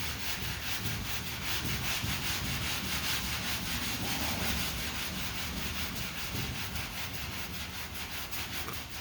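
Sanding block with sandpaper rubbing over lacquer primer on a car body panel in quick, even back-and-forth strokes, stopping just before the end. The paper is getting somewhat clogged with primer.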